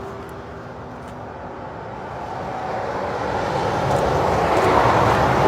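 Motorway traffic noise as a lorry approaches, the tyre and engine sound swelling steadily louder over the last few seconds.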